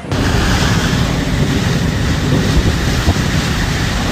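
Loud, steady rushing storm noise: wind and driving rain blasting against a phone microphone, with a deep rumble underneath.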